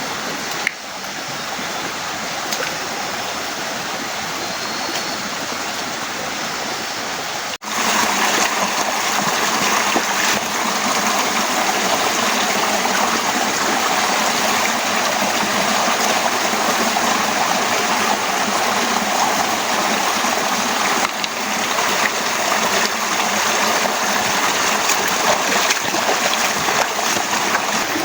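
Heavy rain falling, a steady rushing hiss. It breaks off for an instant about seven seconds in, then comes back louder.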